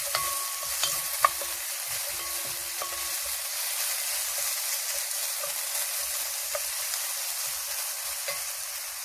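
Onions, garlic and ginger sizzling steadily as they fry in a pan. A few sharp clinks of a utensil stirring against the pan come in the first second or so.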